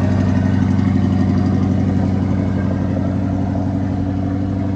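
C8 Corvette's V8 engine idling steadily.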